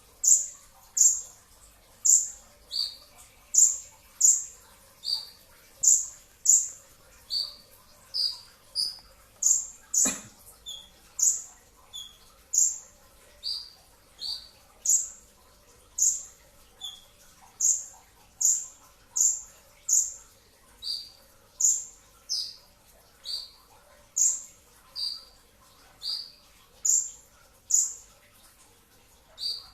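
A brown-throated sunbird (kolibri ninja) calling in rapid, sharp, high chips that fall in pitch, a little more than one a second, switching between a higher and a lower note. There is a single knock about ten seconds in.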